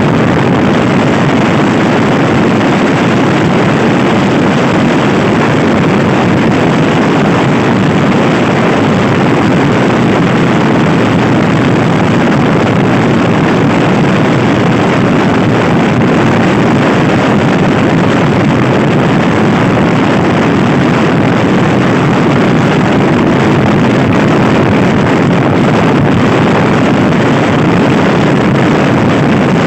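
Loud, steady wind rush on the microphone of a stock Honda Scoopy-i scooter riding at speed, with the scooter's engine running beneath it.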